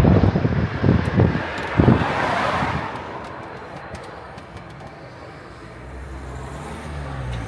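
Jet airliner passing overhead on its landing approach, its engine noise swelling and then fading as it moves away, with wind gusts hitting the microphone early on.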